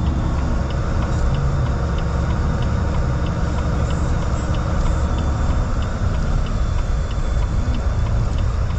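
Steady low rumble of a car driving, with a light regular ticking about twice a second.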